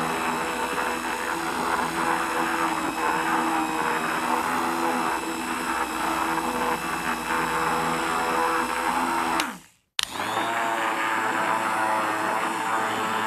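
Electric hand mixer running with its beaters in a bowl, a steady motor whine with beater rattle. About two-thirds of the way through it winds down and stops, then starts straight up again and runs on.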